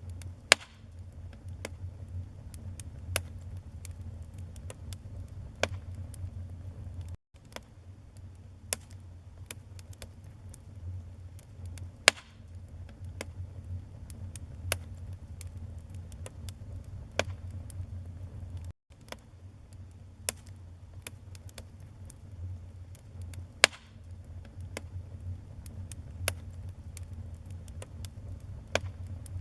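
Wood burning in a fireplace: a steady low rumble of flames with irregular sharp crackles and pops, the loudest snaps about half a second in, around twelve seconds and near twenty-four seconds. The sound cuts out for an instant twice.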